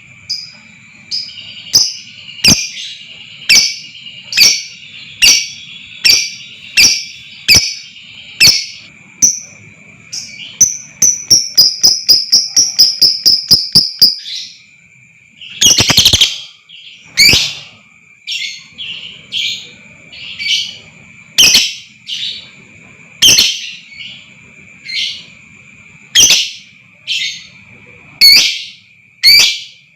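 Lovebird calling in a long series of sharp, shrill chirps, under a second apart. About halfway through they speed into a rapid run of chirps, followed by a dense burst of chattering. A thin, steady high tone runs underneath.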